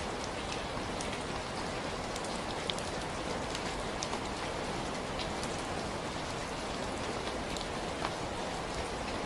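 Steady rainfall: an even hiss of rain with scattered distinct drop ticks landing on a surface.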